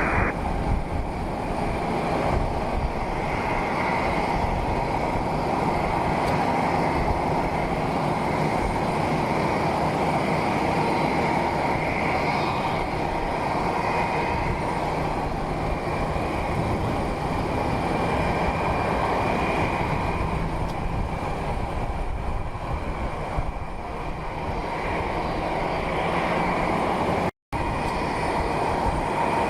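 Steady rumble of jet aircraft engines, cutting out to silence for a split second near the end.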